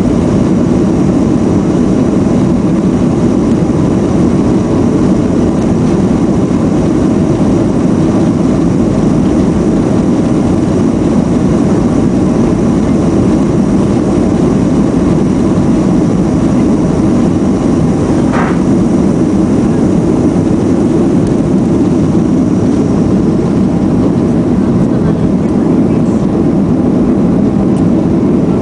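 Boeing 737-400's CFM56 jet engines running with a loud, steady rumble and faint whining tones on top. A brief high sound cuts through about eighteen seconds in.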